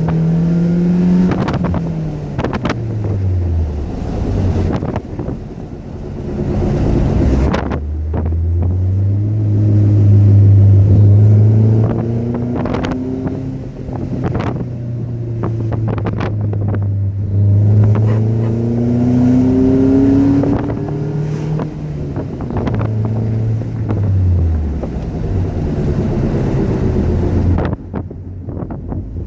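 Car engine and exhaust running under way: the pitch falls after a rev, holds steady for about ten seconds, climbs again and drops back, with many short sharp pops or knocks throughout.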